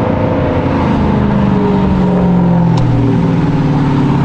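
A car engine held at high revs, its note staying fairly steady with small shifts in pitch.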